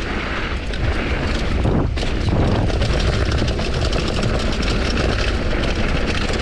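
Wind buffeting an action camera's microphone at speed, with tyre noise and a constant clatter from a Commencal Supreme DH downhill mountain bike riding rough trail.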